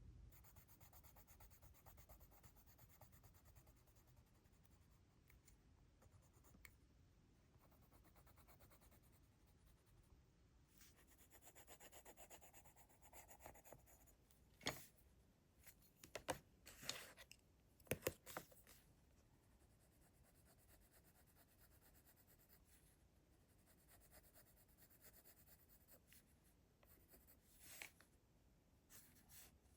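Faint scratching and rubbing of a drawing tool on sketchbook paper, with a handful of sharp clicks about halfway through and another near the end.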